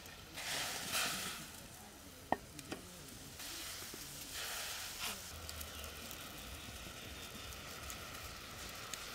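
Dried fish frying in hot oil in a metal karahi, sizzling steadily, with two louder surges of sizzling, one near the start and one about four and a half seconds in. A sharp clink sounds about two seconds in.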